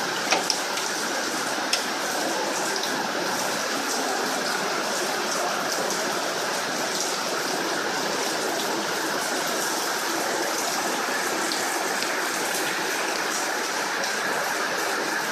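Heavy rain falling steadily, with a few sharper drop hits about half a second and two seconds in.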